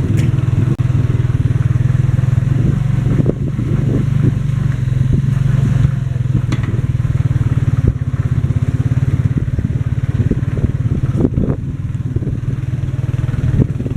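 Motorcycle tricycle engine running steadily under way, with frequent rattles and knocks from the sidecar body over the ride.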